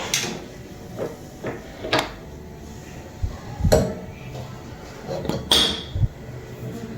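A series of separate knocks and clatters of objects being handled and set down, one about five and a half seconds in with a brief ringing tone.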